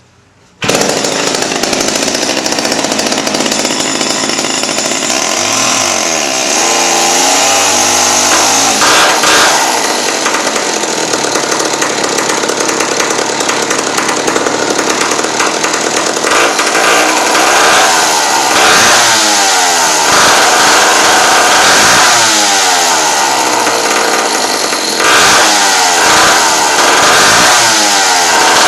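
Freshly rebuilt vintage McCulloch MAC 5 two-stroke go-kart engine catching about half a second in and running loud. Through the second half it is blipped up and down over and over in rising and falling revs.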